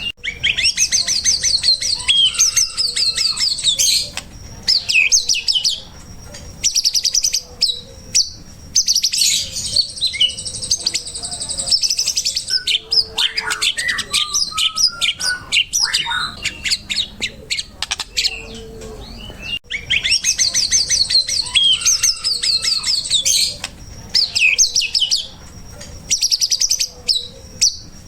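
Recorded songbird song used as a training track for caged birds: rapid high trills and chirps in phrases a few seconds long, broken by short pauses. The sequence repeats about 19 seconds in, as a looped recording does.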